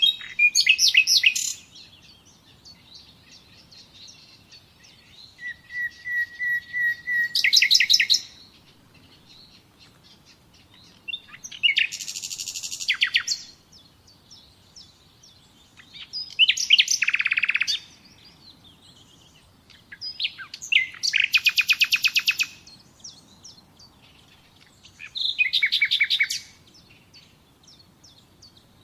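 A songbird singing short, rapid trilled phrases, six of them, each a second or two long and repeated about every four to five seconds, with quiet pauses between.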